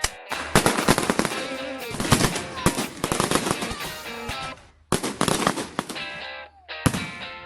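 Fireworks display: rapid sharp bangs and crackles over music.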